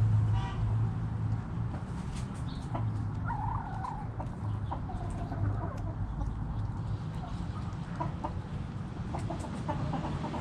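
Backyard hens clucking: short scattered calls, with a longer wavering call a little over three seconds in, over a steady low hum.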